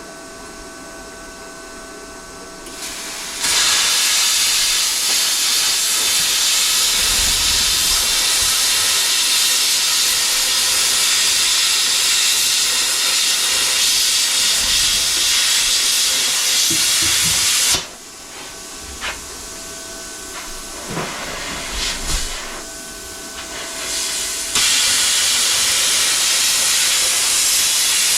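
A loud, steady hiss that starts abruptly a few seconds in and cuts off abruptly about halfway. In the quieter pause there are a few sharp clicks, then the hiss starts again near the end.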